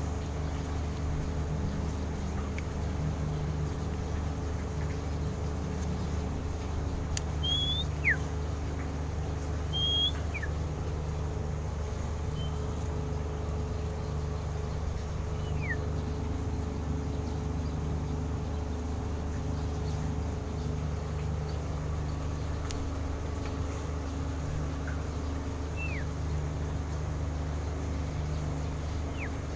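A handful of short, quick falling bird chirps, scattered and well apart, over a steady low mechanical hum.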